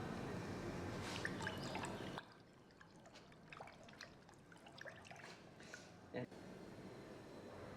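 Liquid dripping and trickling with small scattered clicks, loudest for the first two seconds, then dropping suddenly to faint clicks with one sharper click near the end.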